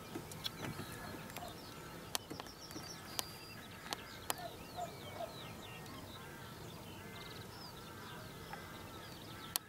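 Small birds singing and calling, with quick chirps and twitters, over a steady low background hum. A few sharp clicks are heard, the last just before the end.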